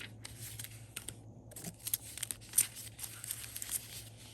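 Paper rustling and crinkling with small irregular taps and clicks: planner pages and sticker sheets being handled on a desk.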